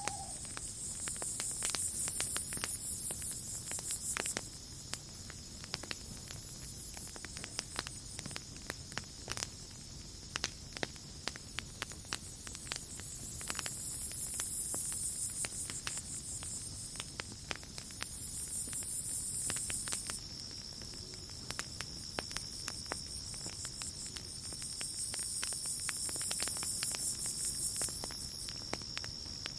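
Campfire crackling with scattered pops over night insects. A steady high cricket trill runs underneath, and louder high chirring comes and goes in spells of a few seconds, four times.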